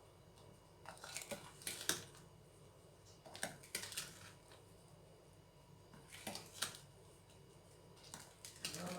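Light kitchen handling noises: four short clusters of clicks and scrapes from utensils or dishes, a couple of seconds apart.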